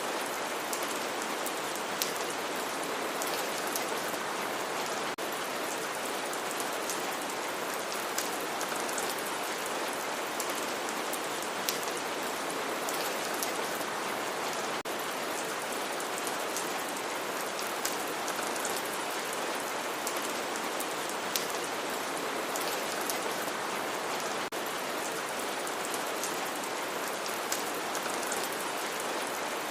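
Steady rainfall, an even hiss of rain with scattered sharper drop ticks on a surface.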